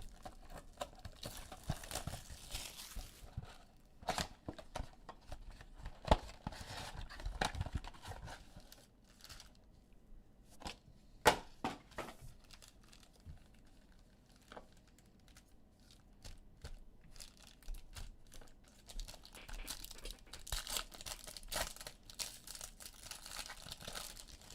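Plastic trading-card pack wrappers being torn open and crinkled, with irregular rustling and a few sharp snaps about 6 and 11 seconds in.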